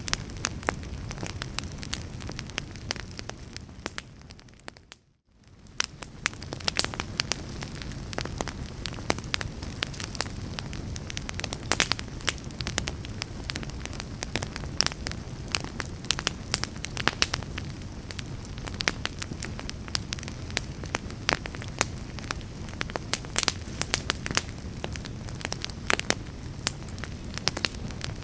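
Wood log fire crackling in a fireplace: a steady low rumble and hiss with frequent sharp pops and snaps. About five seconds in the sound briefly fades almost to silence, then fades back up.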